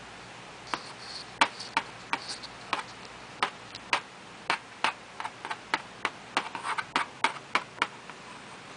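A drawing pen tapping repeatedly on paper: sharp, irregular ticks about two to three a second, coming faster and more closely after the middle.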